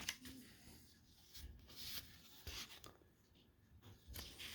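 Faint rustling and rubbing of paper as a CD booklet and its case are handled, with a couple of soft scrapes.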